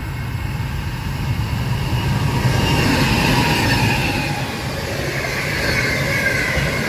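Freight train wagons rolling past at speed: a steady rumble of wheels on rail with a wavering high-pitched wheel squeal, growing louder about two seconds in.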